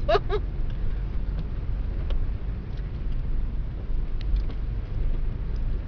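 Steady low rumble of a car driving on a snow-covered road, heard from inside the cabin, with a few faint ticks.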